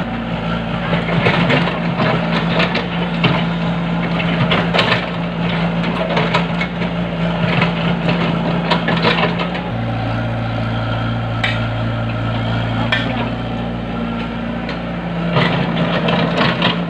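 Backhoe excavator engine running steadily, its note dropping for a few seconds about ten seconds in, with repeated knocks and clanks throughout.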